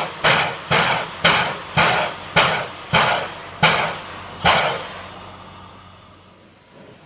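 Climax geared steam locomotive working with sharp exhaust beats from its stack, about two a second, eight in all, the last a little later than the rest, then fading away.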